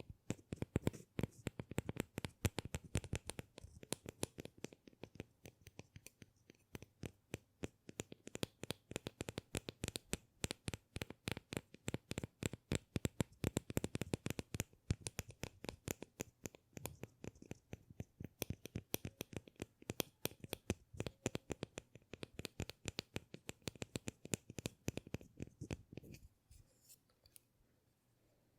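Fast, irregular tapping and clicking from hands handling an object, many clicks a second, that stops about 26 seconds in.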